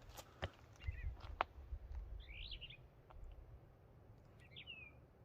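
A small songbird gives short chirping phrases, about three of them a second or two apart. A few sharp clicks come in the first second and a half, over a low rumble.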